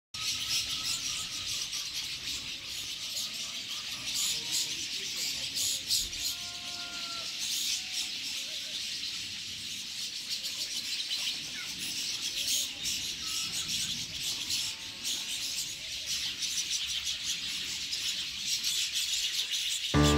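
Dawn chorus of many small birds chirping and twittering densely, with occasional clearer whistled notes from single birds.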